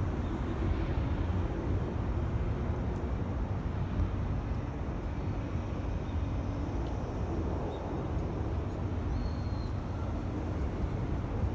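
Steady low rumble of an electric commuter train running, with faint scattered clicks.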